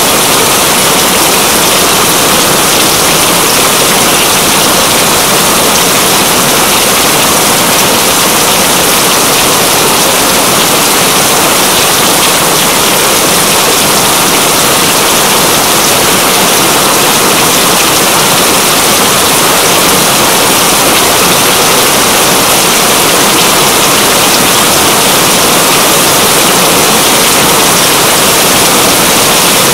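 Steady, loud rain: a dense, even hiss of falling rain with no let-up.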